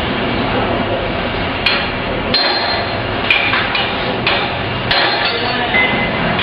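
Hammer striking metal: about six irregular blows, some leaving a brief ring, over steady workshop noise.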